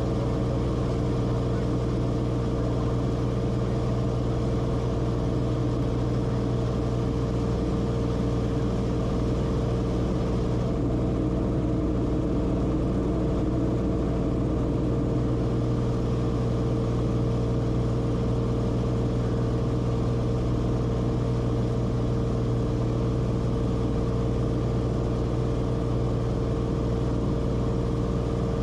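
Cessna Corvalis TTX's turbocharged six-cylinder engine and propeller running steadily, a constant drone with a deep hum and a higher steady tone.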